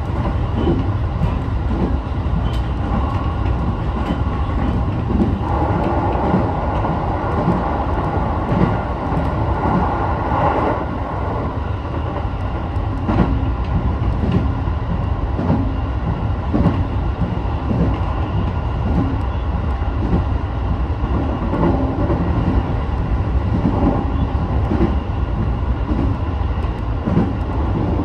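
Sotetsu 12000 series electric train running along the line, heard from inside the car: a steady rumble of wheels on rail with short knocks from rail joints at irregular intervals.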